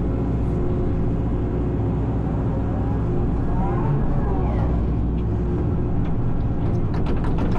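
Excavator's diesel engine running steadily under load while the hydraulics whine up and down in pitch as the tree shear is worked. A quick run of sharp cracks comes near the end.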